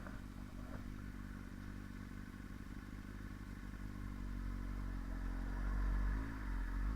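Inline-four sportbike engine running while riding, growing louder over the last few seconds, with a brief dip and recovery in pitch near the end.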